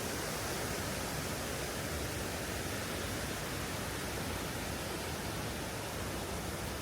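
Steady rush of flowing stream water, an even hiss with no separate events.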